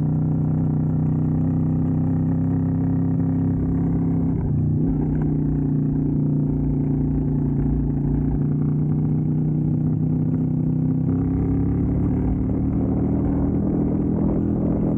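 Keeway V250's V-twin engine running as the motorcycle is ridden: a steady engine note, briefly changing pitch about four and a half seconds in and again around eleven seconds.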